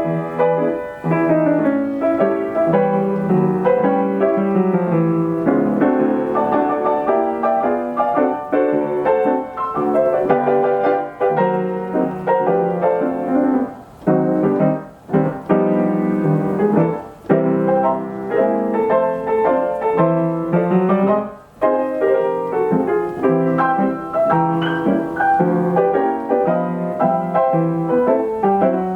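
A Steinway Model S grand piano with an Ampico B reproducing action plays a 1936 popular-song medley roll. It plays continuous chords and melody, with a few brief pauses between phrases in the middle.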